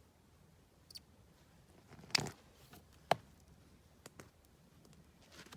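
A few short, isolated knocks and rustles, the clearest two about two and three seconds in, over a quiet background.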